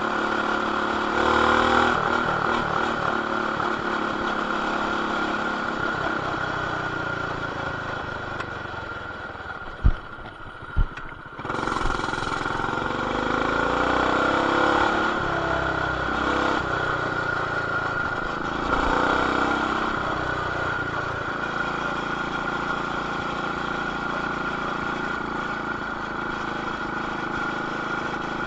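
A Coleman BT200X mini bike's single-cylinder engine, fitted with a stage 1 intake, header and RLV exhaust, running while being ridden, muffled by the action camera's plastic case. The engine eases off around ten seconds in, where two sharp knocks are the loudest sounds. It then picks up again, rising in pitch twice as the throttle is opened.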